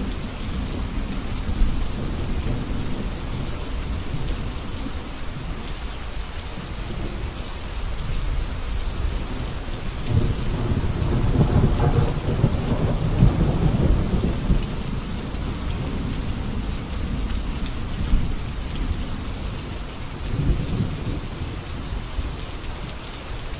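Steady rain falling, with deep thunder rumbling beneath it, swelling to its loudest about halfway through and rolling again briefly near the end.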